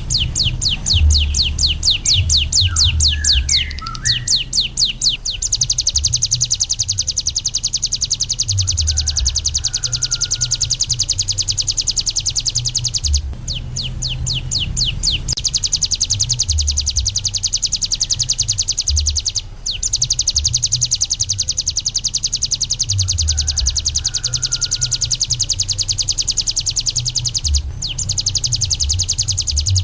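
Ciblek gunung, a prinia, singing a long, very fast rattling trill of high notes. It opens with separate rapid strokes, then runs together into a continuous buzzing trill. The trill breaks off briefly a few times before resuming. A low rumble runs underneath.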